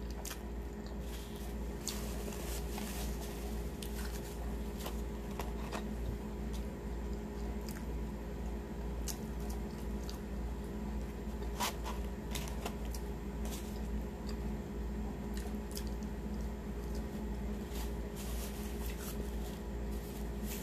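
Chewing a pulled pork sandwich and fries, heard close up: scattered small mouth clicks and crunches over a steady low hum.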